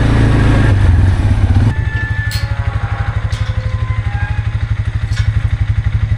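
An engine running loudly and steadily. About two seconds in, its sound changes to a low, fast, even pulsing, with a few faint clicks over it.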